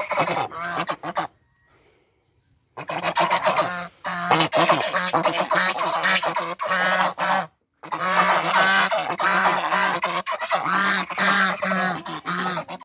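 Domestic geese honking in a group, with many harsh calls overlapping. After a brief opening burst, the calls stop for about a second, then run almost continuously, with one short break about three-quarters of the way through.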